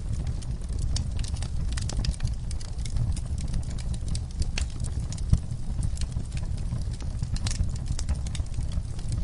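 Wood fire crackling in an outdoor fireplace: frequent irregular sharp pops and snaps over a steady low rumble, with one louder pop about five seconds in.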